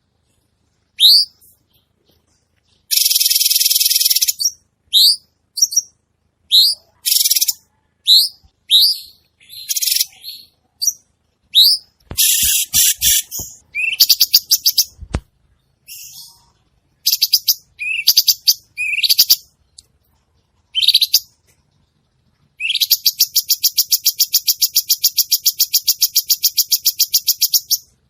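Cucak cungkok bulbul singing actively: short rising whistled chirps, broken by rapid buzzy trills, one lasting about five seconds near the end. A few low knocks sound around the middle.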